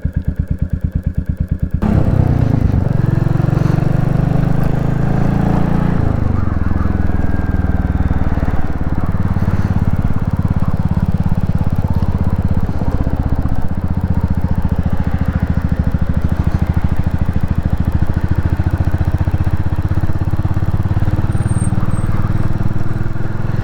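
Royal Enfield Classic 350's single-cylinder engine idling with an even, pulsing beat, then pulling away about two seconds in. Its note climbs and drops at a gear change, then it runs steadily at road speed.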